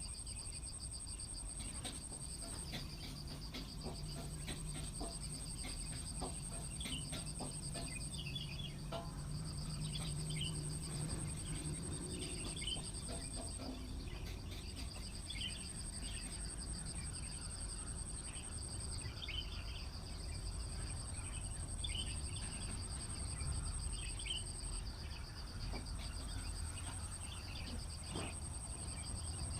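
Insects trilling steadily in two high pitches, each trill running several seconds before a brief break, with scattered short bird chirps and a low rumble of background noise beneath.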